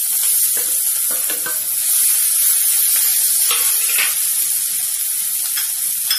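Hot oil sizzling steadily in a kadai as mashed potato goes into it and is worked with a wooden spatula, with a few light scrapes and taps.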